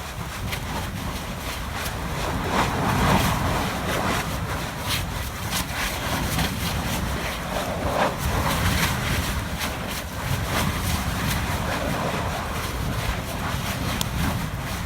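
Volcanic fissure spattering lava: a steady rushing noise of venting gas with frequent sharp pops and crackles, surging louder about three seconds and eight seconds in.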